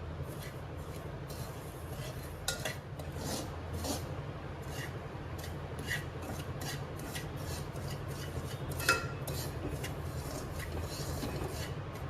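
Kitchen work sounds: irregular scraping and rubbing strokes with the odd clink of utensils, over a steady low hum.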